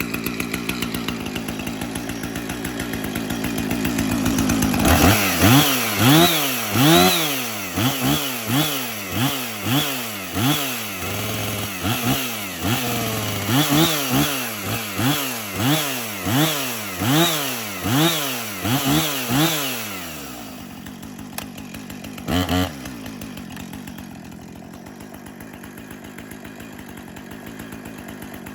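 Husqvarna 455 Rancher two-stroke chainsaw running, then revved up and down in quick blips, a little more than one a second, in two runs with a short break between. It then settles back to a steady idle, with one more short rev a few seconds later.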